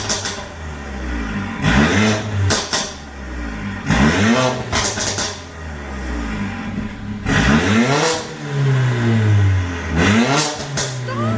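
Mercedes-AMG CLA45's turbocharged 2.0-litre four-cylinder revved in several quick blips, each falling back to idle. Sharp pops and crackles come from the exhaust on the overrun.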